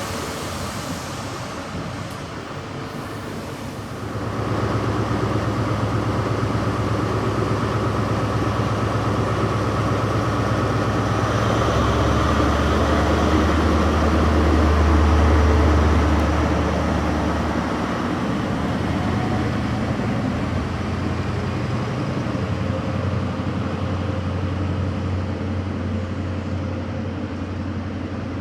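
Train engine running with a steady low hum that steps up about four seconds in, grows loudest and deepest around the middle, then eases off.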